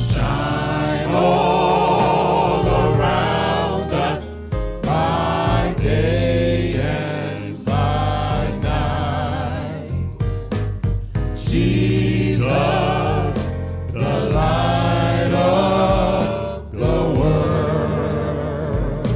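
Gospel praise-and-worship music: singers with vibrato in phrases of a few seconds, over a band with sustained bass notes.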